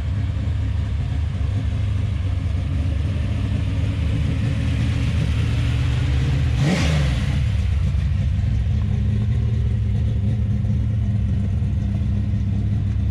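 Classic muscle car engine running at a steady, rumbling idle, with one quick rev about two-thirds of the way through that rises and falls back to idle.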